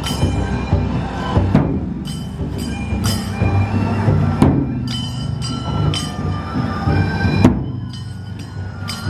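Festival dou-drum procession music: large drums beaten in a steady rhythm, with hard strikes every second or so and bright metallic ringing tones sounding over them.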